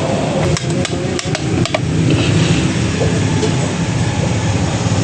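Irregular sharp metal taps and clicks of hand tools working on a motorcycle engine's crankcase during crankshaft fitting, most of them in the first two seconds, over a steady low hum.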